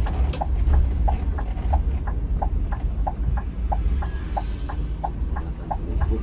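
Turn-signal indicator ticking steadily inside a bus, about three clicks a second alternating between a higher and a lower click, over the low rumble of the coach's engine and road noise.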